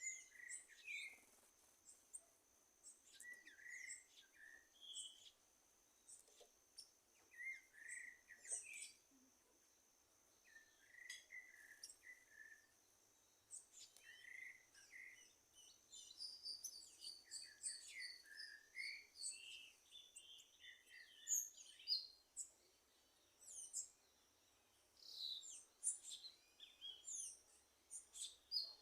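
Several wild birds calling and singing: short whistled notes and chirps, some repeated in quick runs, overlapping one another, with a faint steady high tone beneath.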